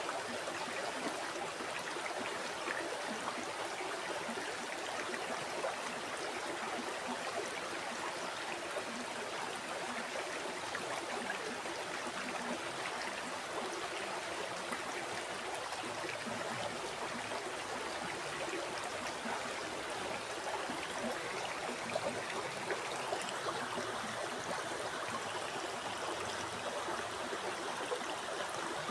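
River water flowing and babbling steadily over rocks, a continuous splashing rush with no pauses or changes.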